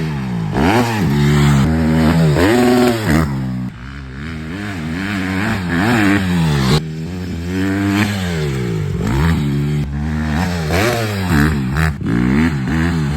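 Honda CRF150RB dirt bike's single-cylinder four-stroke engine being ridden hard, revving up and falling back again and again as the throttle opens and closes. The sound breaks off abruptly a couple of times, about four and seven seconds in.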